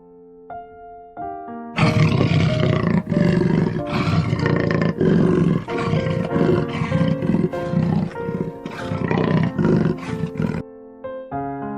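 A big cat growling and roaring in a rough, pulsing run that starts about two seconds in and stops shortly before the end, over soft background music that plays alone before and after it.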